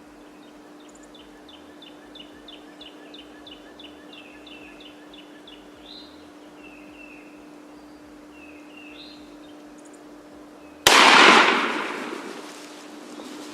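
A single shotgun blast about eleven seconds in, very loud and sudden, echoing away over a second or two: the shot that kills a gobbler. Before it, a bird calls in a quick run of high repeated notes.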